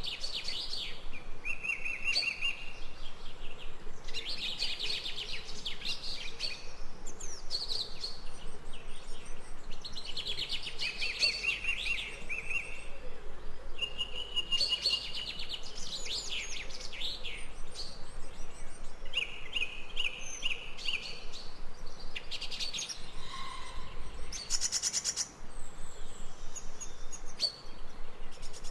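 Songbirds singing: short chirping and trilling phrases, one after another every second or two, over a steady faint hiss.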